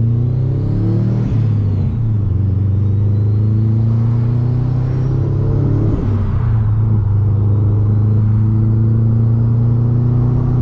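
Subaru WRX/STI turbocharged flat-four engine under way. The revs climb and drop sharply twice, then run steadier, with a faint turbo whistle rising and falling. This is the stock blow-off valve setup, with little compressor flutter to be heard.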